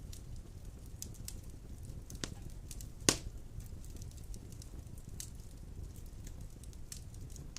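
Wood fire burning in a stone fireplace: a steady low rumble of flames with scattered crackles and one sharp pop about three seconds in.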